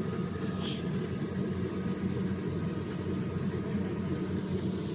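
An engine running steadily, a low, even drone with no change in speed.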